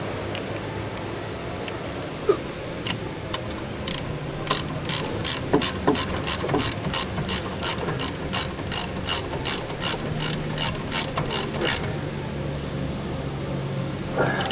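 Hand ratchet wrench being cranked, its pawl clicking at about three clicks a second for several seconds after a few scattered clicks.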